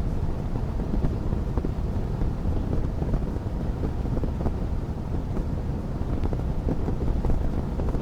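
Wood fire crackling in a fireplace: a steady low rumble of burning with many small pops and crackles scattered through it.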